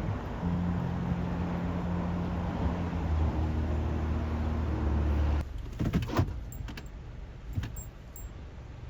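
Car running with a steady engine hum and road noise. It cuts off suddenly a little past halfway, and a few sharp clicks and knocks follow.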